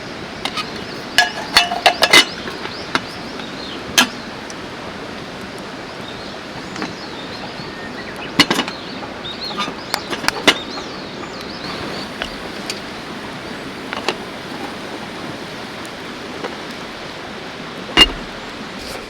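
Steady rush of a mountain river, with scattered sharp knocks and clinks of things being handled, a cluster of them about two seconds in and a single loud one near the end.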